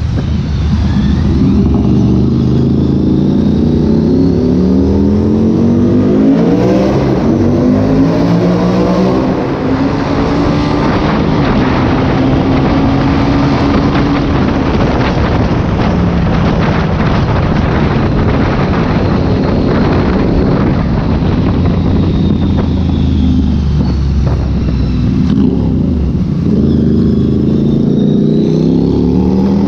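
Ducati Scrambler Cafe Racer's air-cooled L-twin engine, through a loud exhaust, accelerating through the gears in a run of rising revs. It holds steadier revs through the middle, then climbs again near the end.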